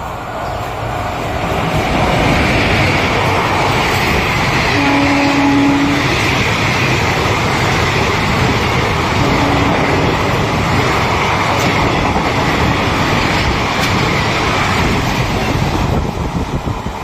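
Electric-locomotive-hauled express passenger train running through a station at speed: a loud, steady rush of wheels on rail and coaches going past, with a short low tone about five seconds in. The noise drops away near the end as the last coach passes.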